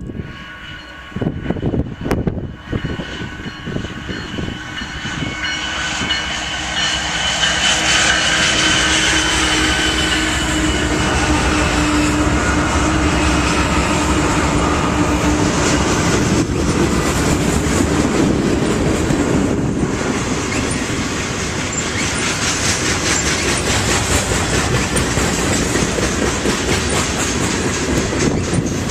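A train passing close by, growing louder over the first several seconds as it approaches. It then settles into a steady, rapid clatter of wheels over the rails as the cars roll by.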